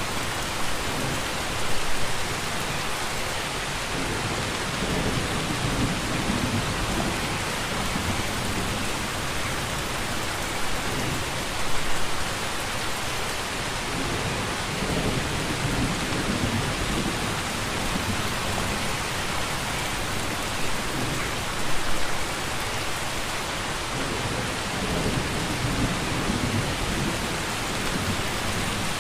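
Steady heavy rain with low rumbles of thunder rolling in several times.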